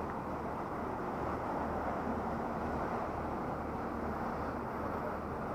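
Wind rushing over a helmet-mounted action camera's microphone while riding, with a steady low rumble that pulses unevenly.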